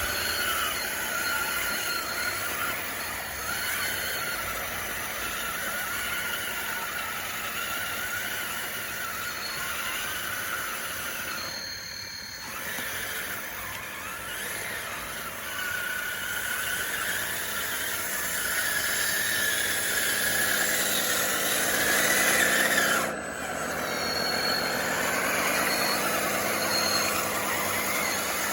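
DXR2 RC bulldozer's electric drive motors and gearboxes whining as it works, the pitch shifting with the throttle. It dips briefly about twelve seconds in; later it breaks off sharply, and the pitch sags and then climbs back up.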